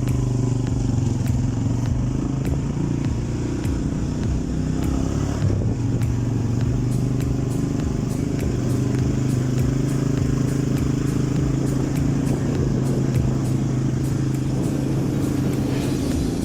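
Italika TC-250 motorcycle's single-cylinder engine running steadily under way, its pitch dipping briefly about five seconds in before picking up again.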